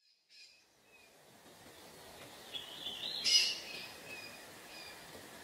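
Birds chirping: scattered short, high calls, with a louder cluster a little past the middle, over a faint steady outdoor hiss that fades in at the start.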